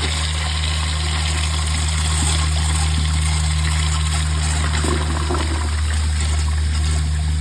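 Proflo Jerritt toilet flushing with its siphon jet clogged: tank water rushes steadily into the bowl as the bowl struggles to start siphoning. A steady low hum runs underneath.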